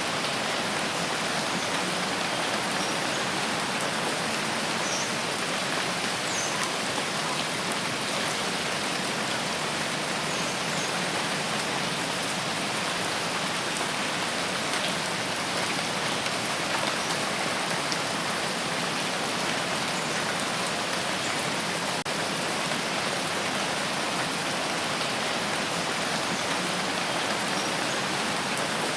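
Steady, dense rainfall with many small drop ticks, unchanging throughout.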